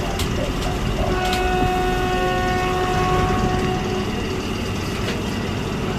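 Diesel train running with a steady low rumble. About a second in, a chord of several steady tones is held for about three seconds, and a few sharp clicks are heard.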